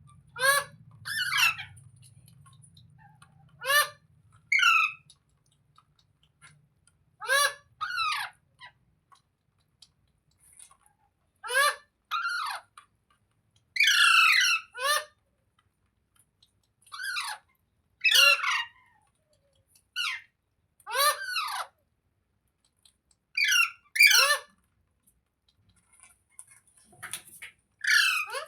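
A green Indian ringneck parakeet (rose-ringed parakeet) calling. Short, shrill calls come mostly in pairs, repeated every three or four seconds.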